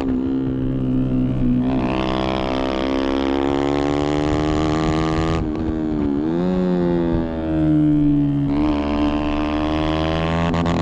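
Yamaha motorcycle engine running hard on track, its pitch rising and falling as the rider works the throttle through the corners, with a sharp dip and recovery about six seconds in.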